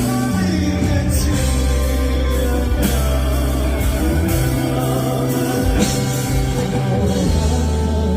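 Live band music with a singer, carried by long held bass notes under layered guitar and keyboard tones.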